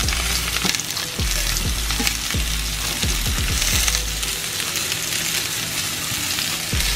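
Cut-open sausages sizzling as they fry in hot olive oil in a pan, a steady crackling hiss.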